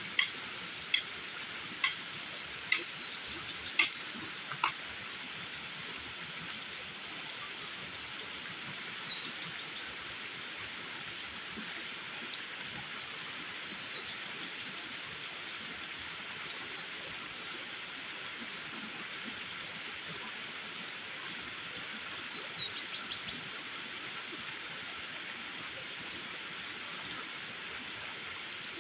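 Steady rushing of water. Sharp clicks come about once a second in the first few seconds and in a quick run of four near the end, with a few short, high rattling trills.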